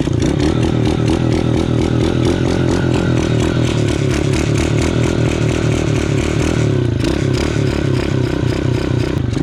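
Two-stroke dirt bike engine running fast and steady just after being kick-started, held on a little throttle while it is still cold so it does not die.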